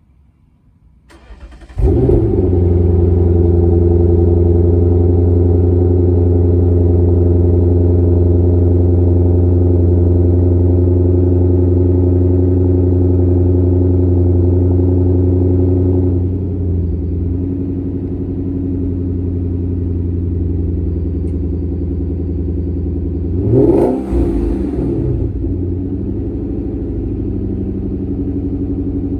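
Lexus LS460's 4.6-litre V8 starting through an Aimgain stainless loop muffler with its valve fully open: a brief crank, then a loud, high fast idle. About 16 s in the idle drops to a lower, quieter note as it settles, and near 24 s there is one short rev before it settles back to idle.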